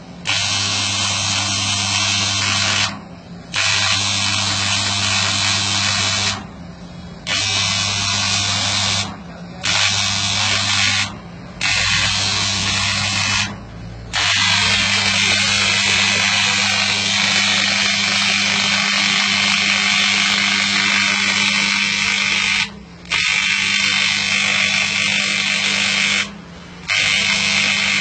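TIG welding arc on copper, a steady electric buzz with a hiss, struck and broken again and again with pauses of about half a second between welds, the longest run lasting about eight seconds in the middle.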